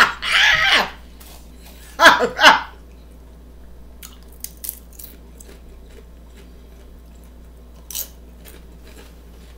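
Two loud vocal exclamations in the first few seconds, then quiet crunching and chewing as a chip is bitten and eaten, with a few faint crisp clicks and one sharper crunch near the end.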